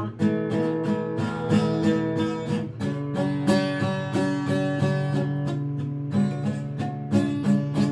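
Acoustic guitar strummed in a steady rhythm as song accompaniment, with a chord change about three seconds in and no singing.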